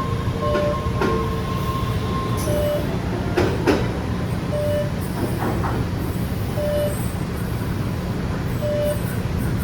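MBTA Red Line subway train rumbling steadily, with a short beep repeating about every two seconds and a brief clatter of clicks a few seconds in.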